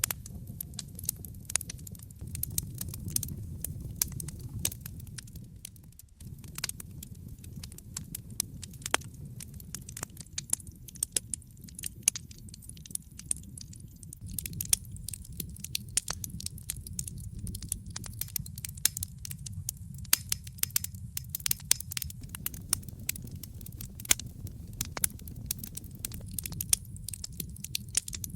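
Wood fire crackling in a fireplace: frequent, irregular sharp pops and snaps over a low, steady rumble of the burning fire.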